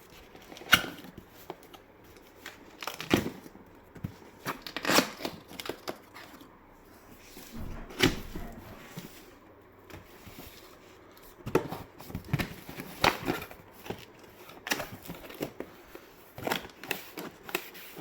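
Cardboard box being opened by hand: irregular rustling, scraping and tearing of cardboard and packing, with sharp clicks and knocks scattered through.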